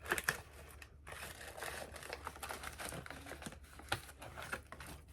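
Plastic snack packaging crinkling and crackling as it is handled, with many small sharp crackles.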